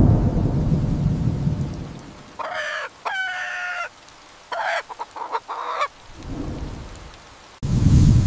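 Rooster crowing and clucking, a few pitched calls in the middle including one held note, with a low rumble before and after them.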